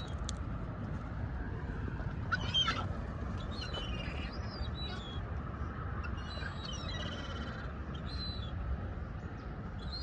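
Seagulls calling in scattered bursts, with a run of quick repeated calls about seven seconds in, over a steady low rumble.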